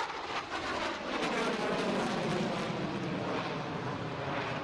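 F-22 Raptor fighter jet's engines, a steady rushing jet noise.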